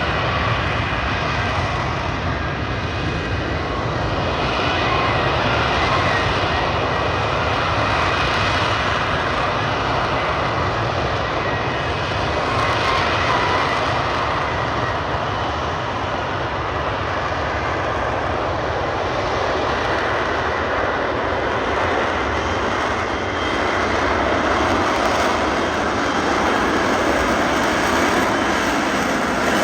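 Aircraft engines of low-flying aircraft: a continuous rushing engine noise that swells and eases gently several times as they pass.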